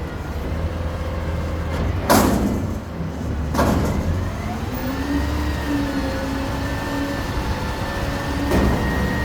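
Garbage truck engine running steadily, with two short bursts of hiss about two and three and a half seconds in and a steady whine through the second half.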